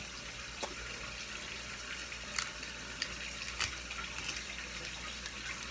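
Sharp clicks and cracks of a crab shell being worked and broken open by hand, a few separate snaps about a second apart, over a steady background hiss.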